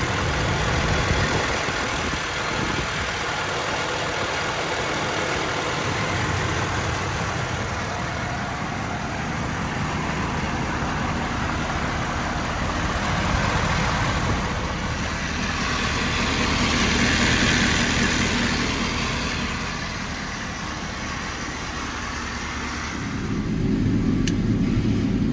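Ford 6.7 L Power Stroke V8 turbo-diesel running steadily, with the rattling chatter from the PTO that is very common on these trucks and the subject of a TSB. About 23 seconds in, the sound turns louder and deeper.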